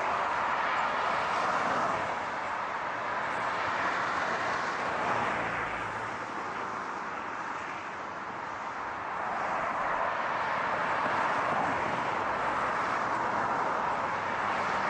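A car driving with a steady hiss of tyre and road noise. It eases off a little around the middle, then swells back.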